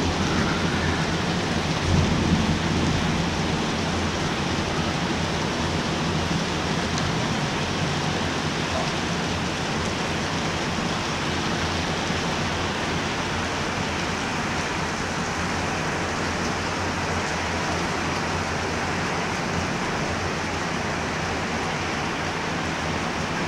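Steady rain falling, with a low rumble of thunder in the first few seconds that dies away, leaving an even hiss of rain.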